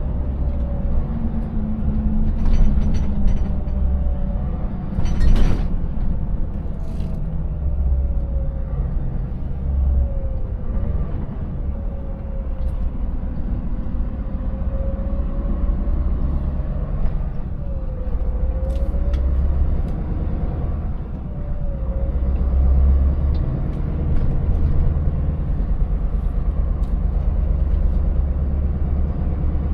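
Scania 590S V8 truck engine running under way, a steady low rumble with road noise, over a faint whine that wanders up and down in pitch. A few short knocks or rattles on the rough road, the sharpest about five seconds in.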